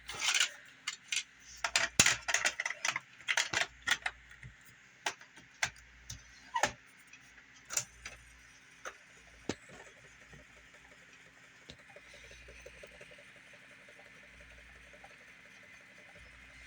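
Plastic clicks and clacks of a cassette being loaded into a Sound Technologies TR-200 answering machine and its keys being pressed: many sharp clicks over the first ten seconds or so, thinning out. After that only a faint steady hiss, with no music playing.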